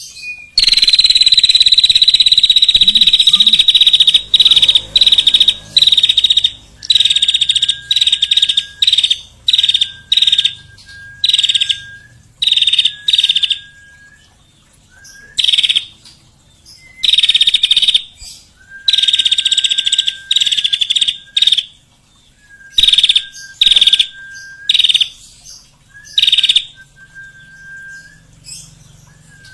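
Small songbird giving fast, dry rattling trills again and again, each lasting from half a second to about three seconds with short pauses between. A thin steady high note trails many of the trills. These are bird-song tutor calls of the kind used to train a white-rumped shama.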